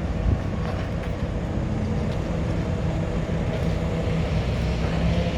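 A vehicle engine running steadily at an even, low drone, with a single knock just after the start.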